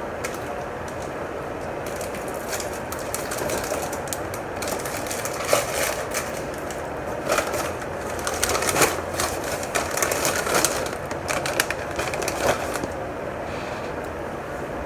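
Irregular crackling and crunching from a packaged strawberry-cream cookie being unwrapped and eaten, over a steady background noise.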